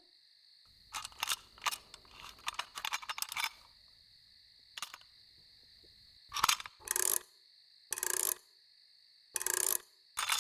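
Clockwork mechanism of a toy mechanical songbird being worked on: a quick run of small metallic clicks and rattles, a single click, then four short buzzy bursts. The bird is broken and worn out.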